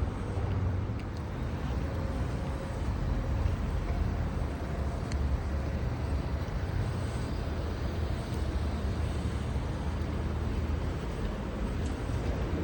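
Steady low rumble of vehicles running, with even road noise and no distinct events.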